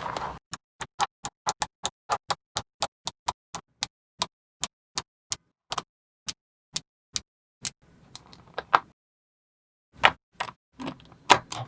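Small magnetic balls clicking as they snap onto one another one at a time: a quick, fairly regular run of sharp clicks, about three or four a second, then a short soft rustle and a few more clicks near the end.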